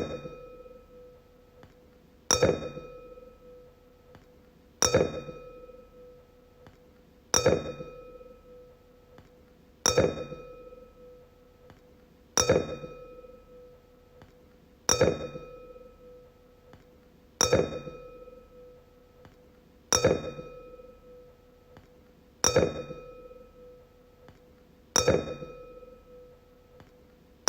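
Wine glass struck at a steady pace, about once every two and a half seconds, each strike ringing on with a clear tone and bright overtones that fade before the next.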